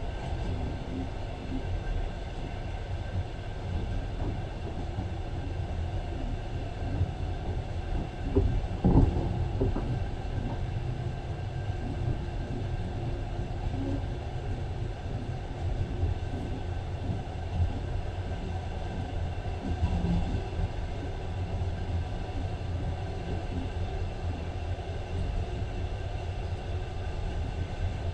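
Passenger train running along the line, heard from inside the carriage: a steady low rumble of wheels on the rails, with a brief louder jolt about nine seconds in.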